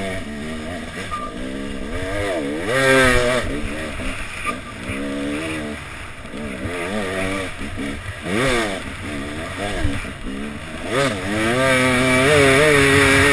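Enduro dirt bike engine, heard from on board, revving up and down over and over with the throttle as the bike is ridden hard along a dirt track. It climbs and holds at high revs near the end.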